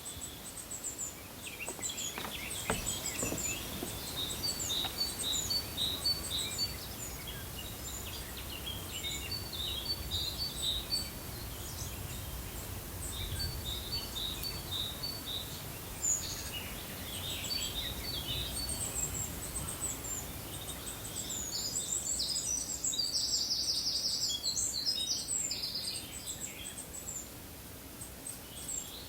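Small birds singing, with short high chirps and repeated runs of notes and a quick trill near the end, over a steady low background rumble.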